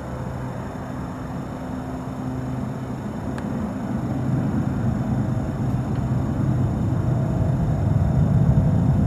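Antonov An-22's four turboprop engines with contra-rotating propellers, a continuous low hum that grows steadily louder as the aircraft approaches on arrival.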